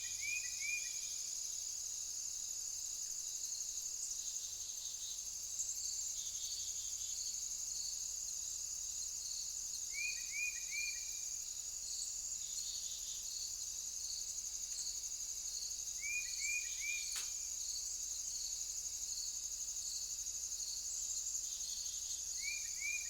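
Steady chorus of crickets, a continuous high pulsing trill. Four times, a short group of three quick falling chirps sounds over it, and a single sharp click comes near the end.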